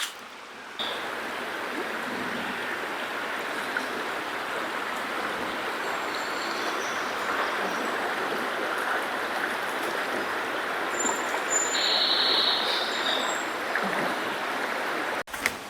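Steady rush of flowing river water, cutting in about a second in and cutting off abruptly near the end, with a brief high chirp about twelve seconds in.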